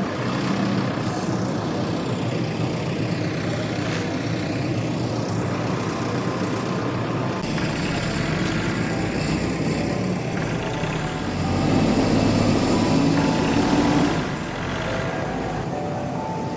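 A vehicle engine runs steadily, growing louder for about two seconds past the middle before settling back.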